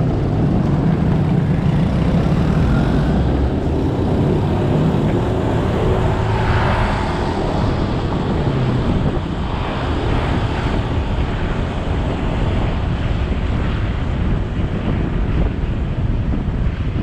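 Motorcycle riding along a road: its engine running under steady wind rush on the action-camera microphone, with road noise from the tyres.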